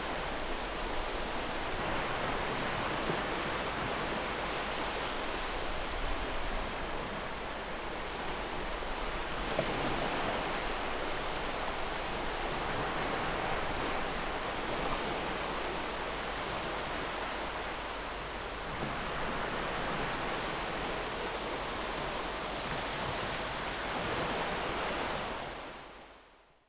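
Ocean surf: a steady wash of waves with slow, gentle swells in level, fading out near the end.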